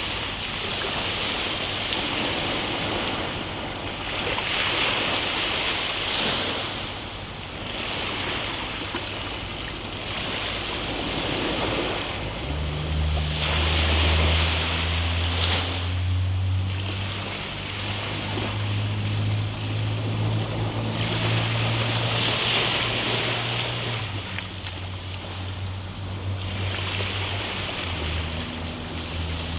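Ocean surf, waves breaking and washing back in slow swells every few seconds. About twelve seconds in, a low steady hum joins it and shifts pitch a few times.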